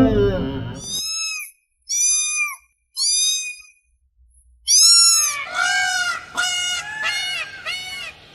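A series of animal calls, each rising and then falling in pitch: three high calls, a short pause, then one loud call followed by a quicker run of about six lower calls.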